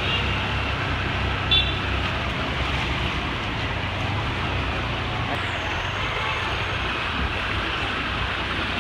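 Steady street traffic noise with a continuous low rumble of vehicles, and one short high-pitched blip about one and a half seconds in.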